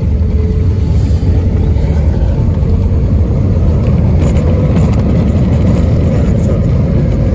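Airbus A320 cabin noise while the airliner rolls on the ground after landing: a steady low rumble from the engines and wheels, with a faint steady hum above it.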